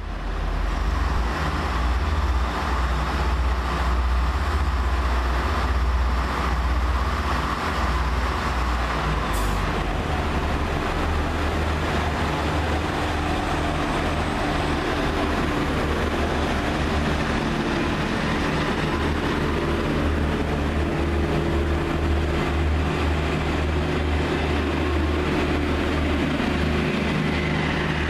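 Silver regional passenger train running alongside a station platform: a steady low rumble and hum, with one brief high click about nine seconds in.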